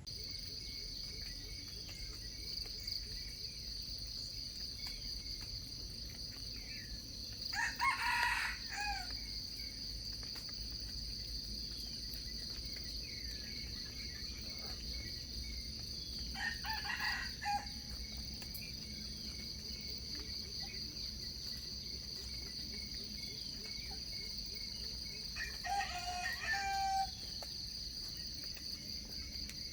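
Junglefowl rooster crowing three times, about eight to nine seconds apart, each crow short, over a steady high-pitched buzz.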